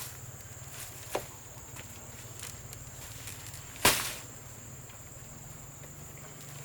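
A single sharp knock just before four seconds in, with a fainter click about a second in, over a steady low hum and a faint high steady tone.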